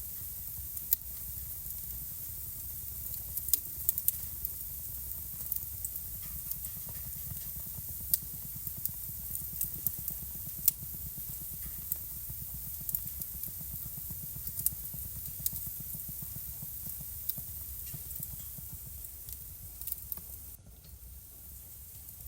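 Wood fire burning in a home fireplace: irregular sharp crackles and pops over a steady low rumble and hiss. The level drops for a moment near the end.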